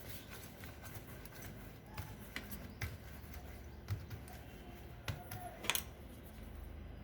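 Faint sounds of hands working soft wheat dough into balls, with scattered light taps and clicks. The sharpest click comes nearly six seconds in.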